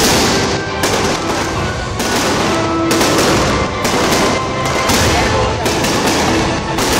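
Fireworks going off in quick succession: a dense rattle of crackling bangs, with a sharper burst about every second.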